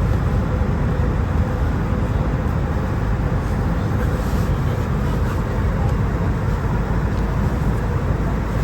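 Steady cabin drone of an Airbus A319 airliner in flight, engine and airflow noise heard from inside the cabin during the initial descent, with a faint steady hum under the rush.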